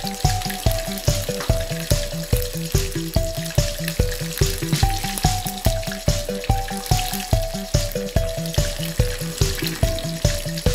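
Chicken pieces deep-frying in a pot of bubbling oil, sizzling steadily. Background music with a steady beat and a simple melody plays over it.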